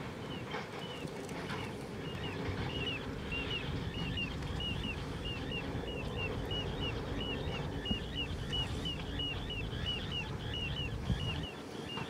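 A bird calling a fast, even series of short, high notes, about three a second, over a steady low rumble.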